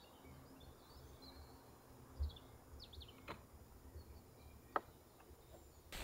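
Faint, short bird chirps over a quiet outdoor background, with two sharp ticks, one a little past halfway and a louder one near the end.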